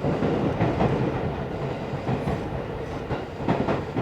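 Cabin noise of a Tokyo Metro 16000-series electric train running into a station, heard from inside the car: a steady rumble of wheels on rail with irregular knocks from the wheels over the track.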